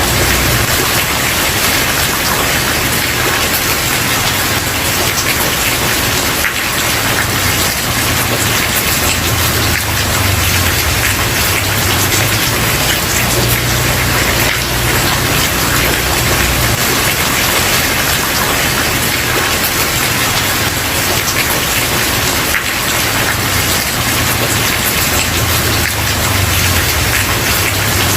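Steady, heavy rain falling on a wooden porch: a dense, even hiss of drops, with a low rumble coming and going underneath.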